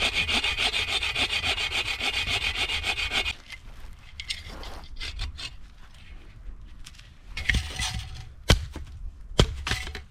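Hand saw cutting through dry deadwood in quick strokes, about six a second, for the first three seconds. Quieter scraping and handling of the wood follows, with two sharp cracks near the end.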